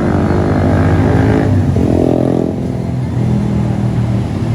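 A loud engine running, its pitch falling about a second and a half in, then a second engine tone coming up.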